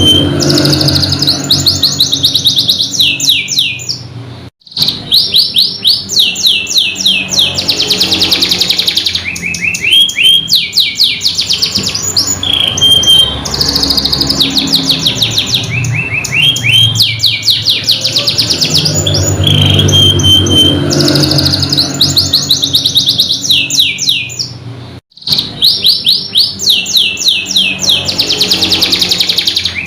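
Domestic canary singing: fast trills of rapidly repeated high notes, one tour running into the next. The song breaks off briefly twice, about four seconds in and again near the end.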